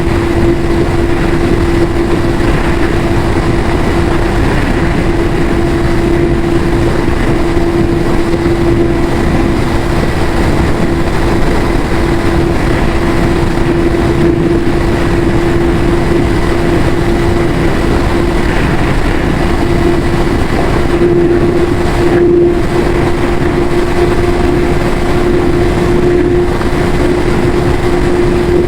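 Yamaha YZF-R6 inline-four engine with its stock exhaust, running at steady revs: one constant tone over a dense rushing noise, with no change in pitch.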